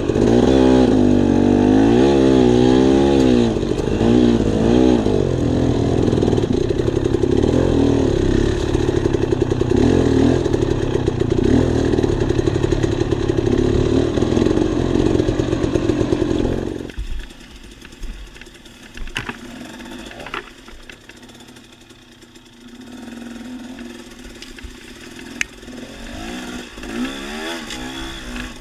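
Dirt bike engine revving on a trail ride, its pitch rising and falling again and again, then dropping away abruptly a little over halfway through to a much quieter level.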